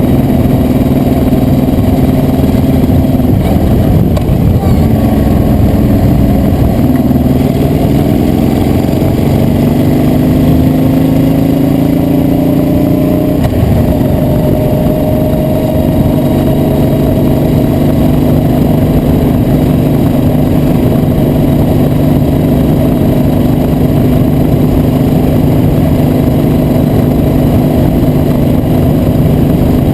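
Motorcycle engine running under way. Its pitch rises for several seconds as it accelerates, drops suddenly about 13 seconds in at a gear change, then holds steady at a cruise.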